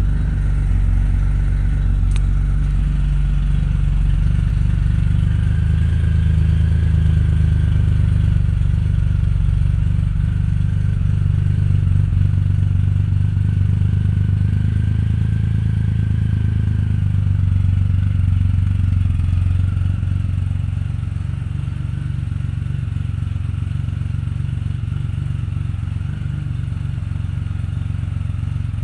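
Triumph Rocket III's 2.3-litre inline-three engine idling steadily through aftermarket Mad Dog mufflers, just after starting. The idle eases slightly lower about twenty seconds in.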